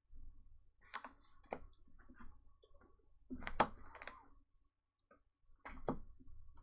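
Four or so scattered light clicks and taps from handling things at a desk, the loudest about halfway through.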